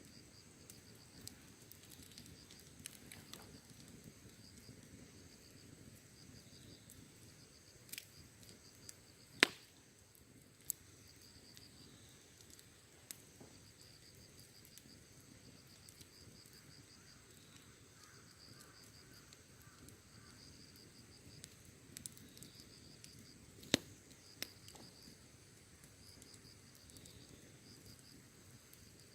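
Wood fire crackling quietly with a few sharp pops, the loudest about nine seconds in and another near twenty-four seconds, over crickets chirping steadily.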